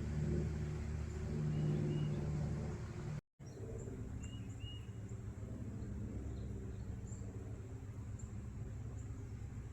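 A vehicle engine hums steadily. After an abrupt cut about three seconds in, birds chirp with short, scattered calls over a steady low outdoor rumble.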